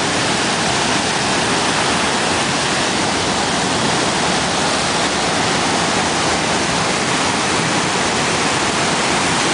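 Waterfall water crashing down, a loud steady rush of water with no let-up.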